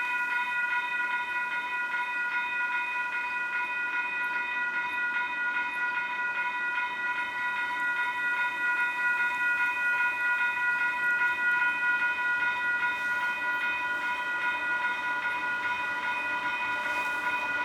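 Railroad grade-crossing warning bell ringing steadily as an evenly repeating tone, over the rumble of a passing Union Pacific freight train.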